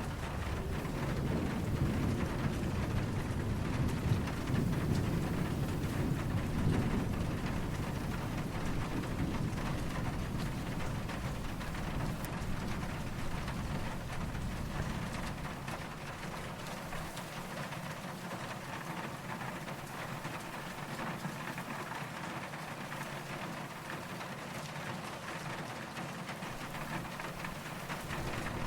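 Steady rain falling, with a low, distant roll of thunder that rumbles through the first half and fades away by about halfway, leaving the rain alone.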